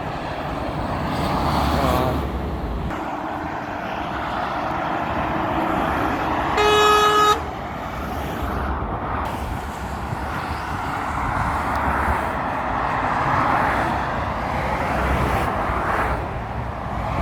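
Road traffic passing, with one vehicle horn sounding a single short steady blast partway through.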